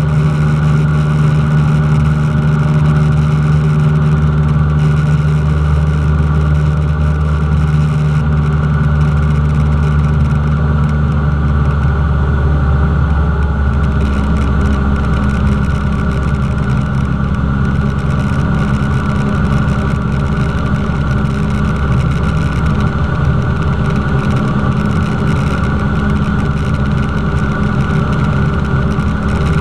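Cessna 172's piston engine and propeller running steadily, a loud, even drone. The engine note changes about halfway through.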